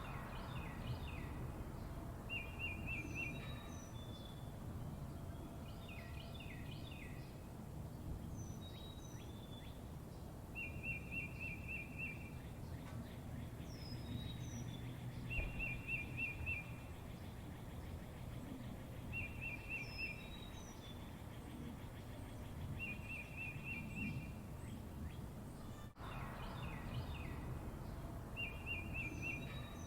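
Small birds calling outdoors: a short rapid trill repeated every few seconds, with high down-slurred whistles and bursts of chirps between, over a steady low rumble of background noise.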